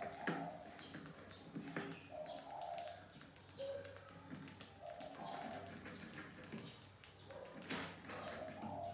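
Bird calls, short and low, repeating in the background, with scattered light taps and clicks from rats moving on and around a plastic jar trap. One sharper click comes near the end.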